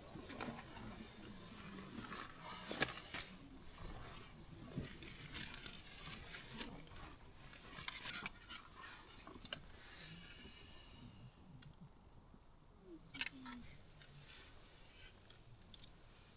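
Faint rustling with scattered small clicks and taps of things being handled, over a low hiss that thins out about two-thirds of the way through.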